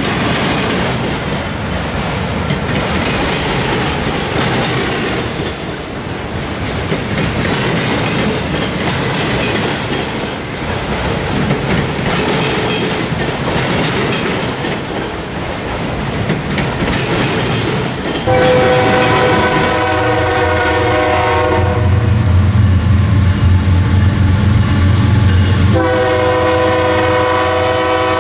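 Freight train rolling through a grade crossing, the wheels of the autorack cars clattering over the rails. About eighteen seconds in, a diesel locomotive's air horn sounds a long, loud chord over the engine's rumble. It pauses briefly near the end, then sounds again.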